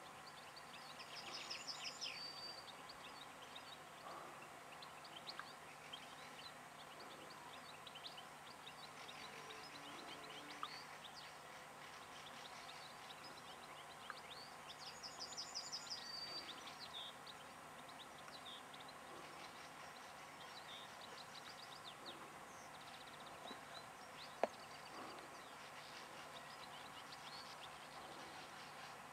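Faint birdsong: quick, high twittering phrases, louder about a second in and again about halfway through, with scattered short chirps between. A single sharp click comes about two-thirds of the way through.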